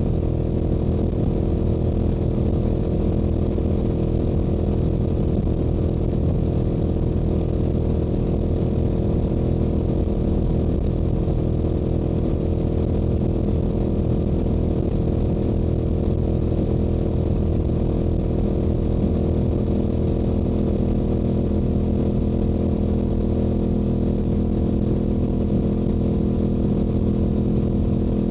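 Yamaha YZF-R7's 689 cc parallel-twin engine through its stock exhaust, running steadily at a constant highway cruising speed with no change in pitch.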